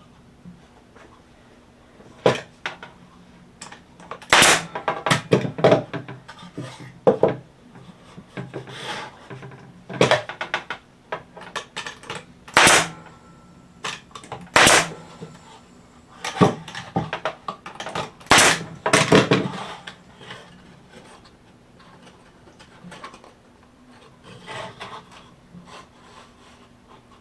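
Wooden fence-picket boards being knocked and handled while a small crate is assembled: about a dozen irregular sharp knocks and clatters, thinning out toward the end, over a faint steady hum.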